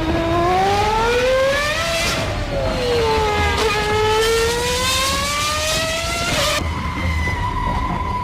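A high-revving engine whose pitch climbs, dips and climbs again, like a race car accelerating, then cuts off suddenly about six and a half seconds in. A steady high tone carries on after it.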